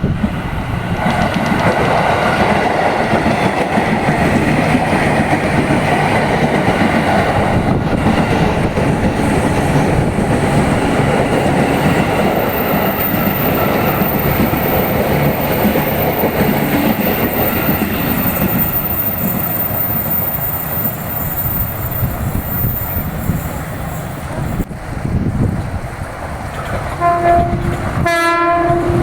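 A JR 205 series electric commuter train passes close by, with a steady rumble and rattle of wheels on rail for most of the span. Near the end, after a short drop in level, a train horn sounds.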